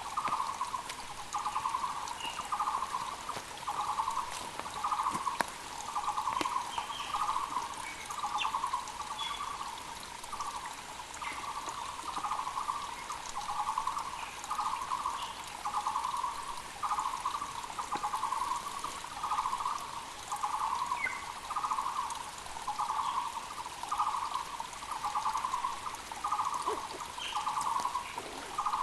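Muller's barbet calling, a low, hollow note repeated steadily about one and a half times a second, over the even rush of a mountain creek. A few short, higher chirps from other small birds are scattered through it.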